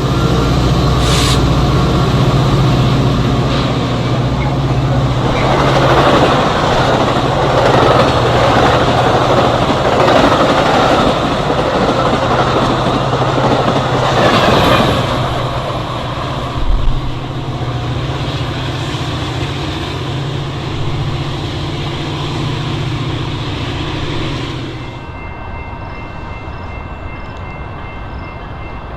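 A train passing close by: a steady low diesel locomotive drone under the rush and clatter of wheels on rail, with a short knock about seventeen seconds in. About twenty-five seconds in, the sound drops suddenly to a quieter background.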